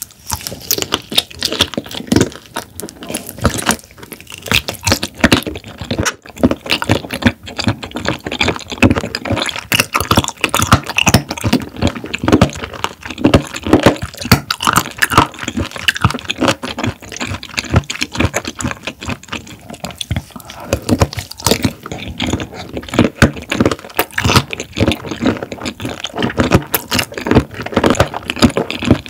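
Close-miked chewing of raw shrimp: a dense, irregular run of quick mouth clicks and smacks.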